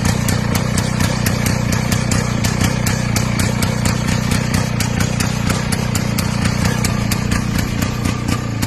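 IZh motorcycle two-stroke engine running at a steady idle, with sharp regular ticks about five times a second over the low engine note.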